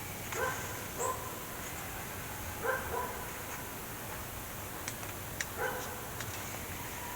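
An animal's short, pitched calls, about five of them, some in quick pairs, over a steady low hum, with a couple of faint clicks about five seconds in.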